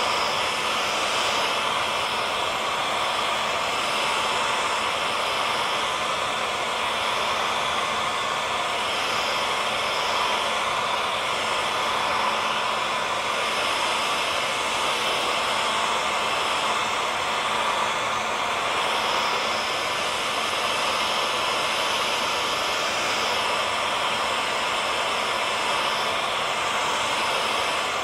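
Hair dryer running steadily: a constant rush of blown air over a faint motor whine, unchanging throughout.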